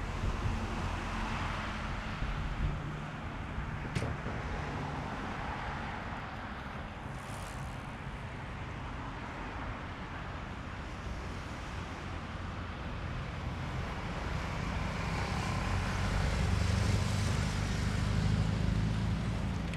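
Outdoor ambience of wind gusting on the microphone and road traffic going by; it swells for a few seconds in the second half, as a vehicle passing would. There is a brief click a few seconds in.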